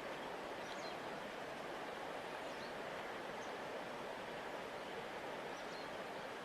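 River water flowing, a steady even rush with a few faint high chirps over it.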